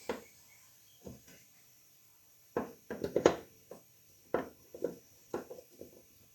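Irregular knocks and clatters of hard objects being handled and set down, the loudest cluster about three seconds in.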